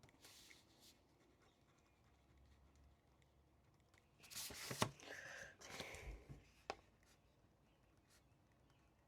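A quiet room with about two seconds of rustling and scratching, like paper and pen handled at a desk, starting about four seconds in. There are two sharp clicks, one in the middle of the rustling and one just after it.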